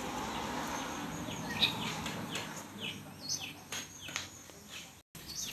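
Faint, short high chirps of small birds, repeated every half second or so, over a low background hiss.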